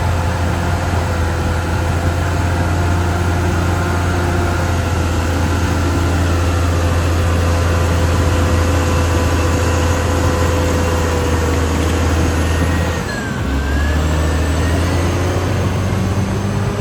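Caterpillar D6R XL bulldozer running steadily at working revs, with a steady whine over the low diesel note. About three quarters of the way through, the sound dips briefly and the engine note shifts, as with a change of load or direction.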